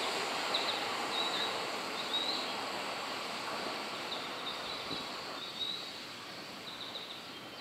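Seibu 40000-series electric train pulling away and receding, its running noise fading steadily, with short faint high squeaks now and then.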